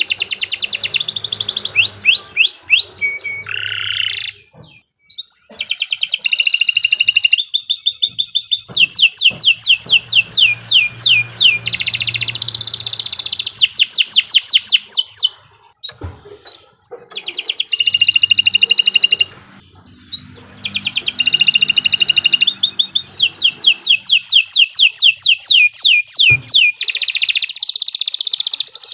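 Domestic canary singing a long song: fast trills of rapidly repeated sweeping notes alternating with held whistled notes. The song breaks off briefly about 5, 16 and 20 seconds in.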